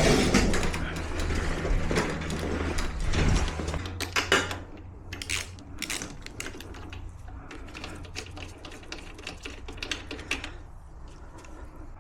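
Rapid ratchet-like clicks and metallic rattles of hand tools and parts being worked on a small engine, with a steady low hum that stops about four seconds in.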